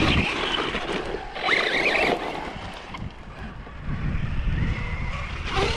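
Wind buffeting the microphone, with a radio-controlled truck's electric motor whining up in pitch about a second and a half in.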